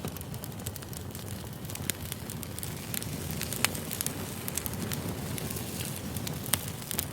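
Campfire crackling: a steady low rush of burning wood with frequent small snaps and a few sharper pops.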